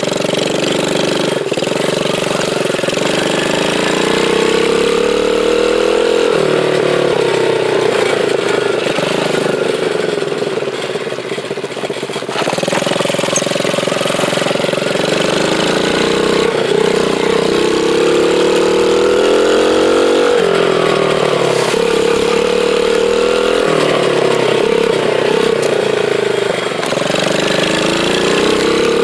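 Dirt bike engine running under way, its pitch climbing and dropping back again and again as the rider opens and eases the throttle.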